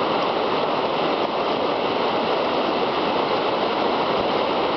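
River rapids: whitewater rushing steadily.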